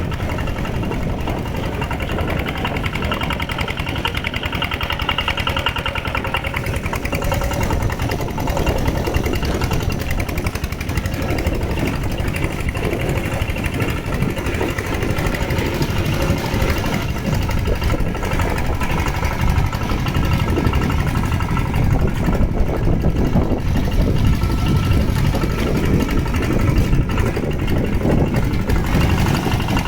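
Mini tractor engine running steadily under load as it plows through water and mud.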